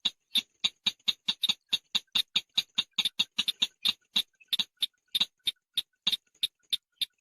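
Call of the bird known in Vietnamese as chàng nghịch: a rapid run of short, sharp chip notes, about five a second, with a brief slowing near the end.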